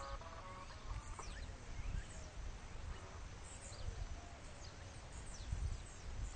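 Birds calling outdoors: scattered short chirps and quick downward-sweeping whistles, over a gusty wind rumble on the microphone.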